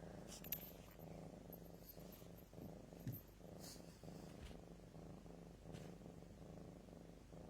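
Cat purring faintly and steadily, with a couple of small soft clicks.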